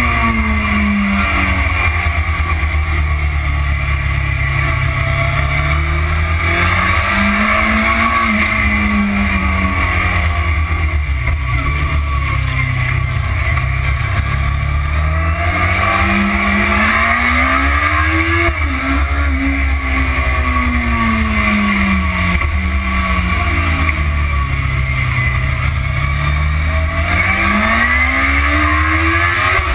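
Motorcycle engine heard from a camera mounted on the bike, its pitch climbing and falling several times as the rider accelerates out of corners and slows for the next, with wind rushing over the microphone.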